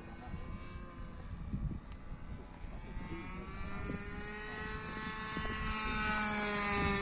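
OS 55 two-stroke nitro engine of an RC airplane in flight, its buzzing note growing louder as the plane approaches, then dropping in pitch near the end as it passes.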